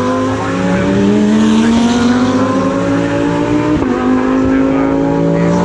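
GT3 race car engine accelerating hard, its note climbing steadily through each gear, with an upshift about half a second in and another near four seconds.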